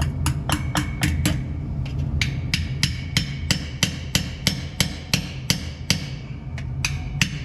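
Hammer blows on metal, about three strikes a second with a short pause early on, each ringing briefly. They land on the truck's brake and wheel-hub parts being worked loose.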